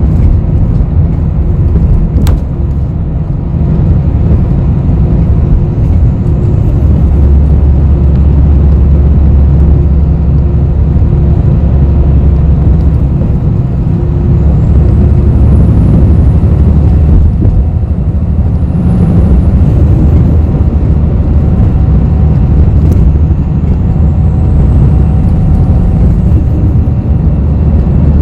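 Bus cabin noise from inside a Korean city bus: a steady, loud low rumble of engine and road, with a sharp click about two seconds in and faint high whines rising and falling later on.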